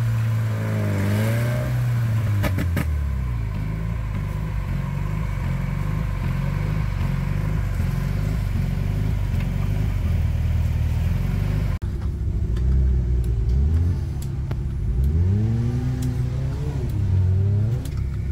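Off-road 4x4 engine revving up and down under load, its pitch rising and falling again and again. There are a couple of sharp knocks about three seconds in, and the sound breaks off for an instant about twelve seconds in before the revving goes on.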